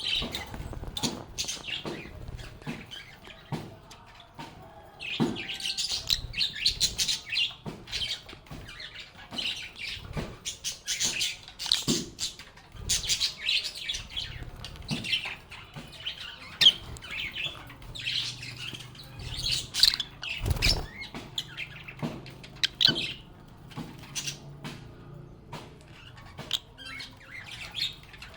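A group of lovebirds chirping and chattering in a steady stream of rapid, high-pitched chirps, mixed with sharp clicks. A single low thump comes about two-thirds of the way through.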